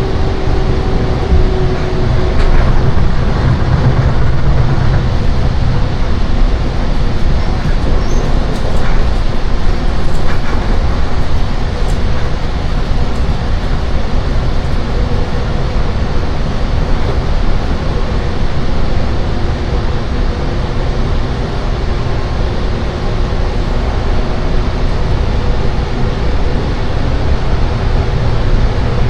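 Loud running noise of a Seibu 10000 series Red Arrow limited express heard inside the passenger car: a steady rumble and roar of the train at speed, with a faint whine at times.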